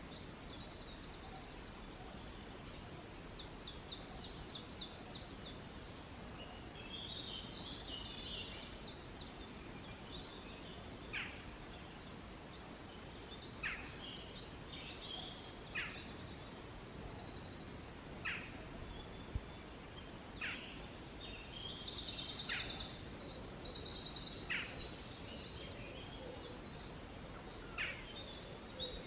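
Several woodland songbirds singing over a steady background hiss: quick high chirps and trills, a short call that slides down in pitch repeated about every two seconds from the middle on, and a fast buzzy trill in the second half.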